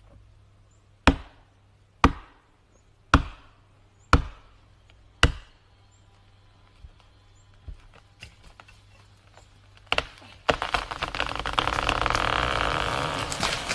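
Five sharp strikes on wood about a second apart, then a few faint cracks. About ten and a half seconds in comes a loud, continuous rushing crash: the felled tree coming down through leaves and branches.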